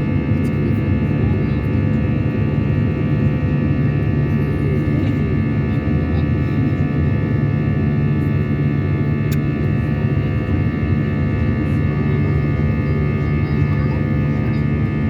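Airliner engines running at takeoff power: a steady, loud drone with several steady high whining tones above it.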